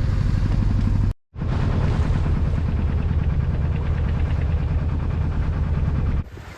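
Sailing yacht's small inboard engine running steadily under way as a low, pulsing rumble. It drops out briefly about a second in, then carries on.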